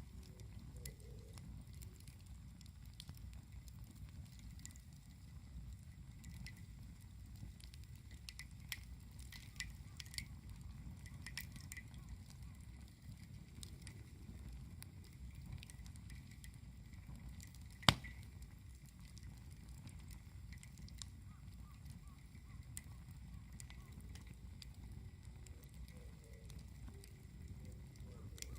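Wood campfire burning, with scattered small crackles and snaps over a low steady rumble, and one sharp loud pop about two-thirds of the way through.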